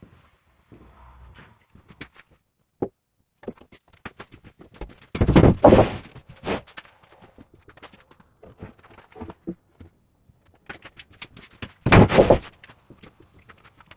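Wooden beams being handled and set down: scattered knocks and clicks, with two heavy thunks about five and twelve seconds in.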